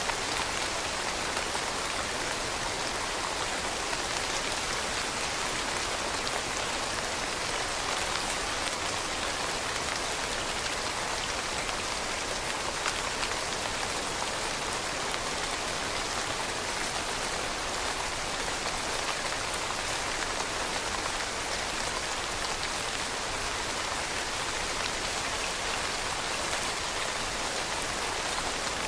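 Steady rain falling on leaves, an even patter of many drops with no let-up or change.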